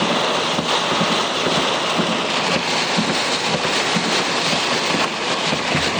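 Torrential thunderstorm rain drumming on a car's roof and windows, with strong wind, heard from inside the car as a loud, steady, crackling hiss.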